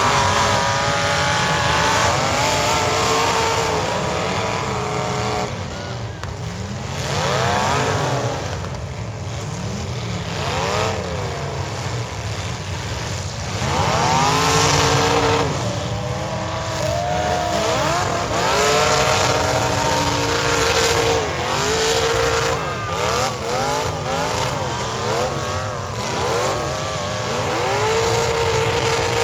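Several demolition derby car engines revving hard up and down, one over another, in a continuous loud din.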